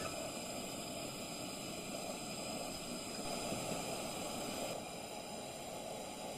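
Steady hissing noise with no distinct sounds in it, dropping slightly in level near the end.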